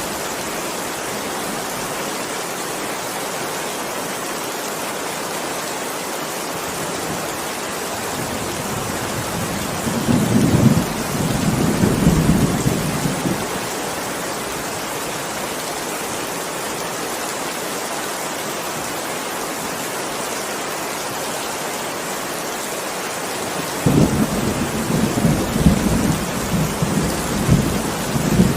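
Steady heavy rain with rolling thunder: one rumble about ten seconds in lasting a few seconds, and another starting suddenly about two-thirds of the way through and rumbling on to the end.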